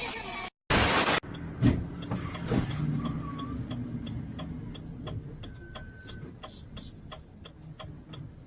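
A brief burst of noise, then steady, regular ticking about three times a second over a low hum.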